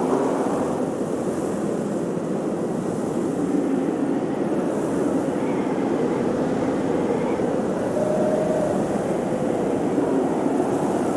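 Snowstorm wind blowing steadily, with faint whistling tones that rise and fall as it gusts.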